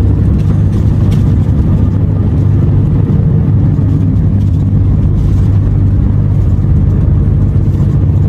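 Renault T480 truck's diesel engine running steadily while driving, a continuous low drone.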